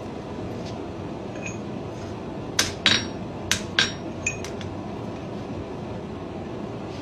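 Hand hammer striking a spring-steel fuller held on hot steel at the anvil: five sharp, ringing blows in about two seconds, coming in two quick pairs and a single, over a steady low background noise.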